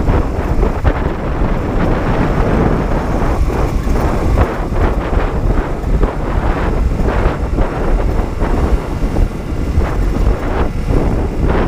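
Honda CB125T's twin-cylinder 125 cc engine running while the motorcycle rides along, mostly covered by heavy wind buffeting on the microphone.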